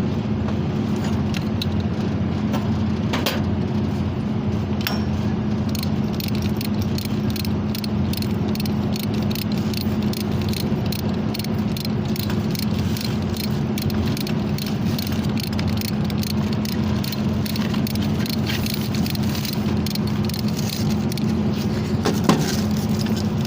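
A steady low mechanical drone with a continuous light rattling and clicking over it, and one sharper knock near the end.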